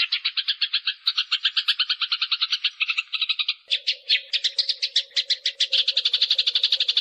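Eurasian tree sparrows' fighting calls: a fast, harsh chatter of rapid chirps, about ten a second, running on without pause. About halfway in, a steady low hum joins underneath.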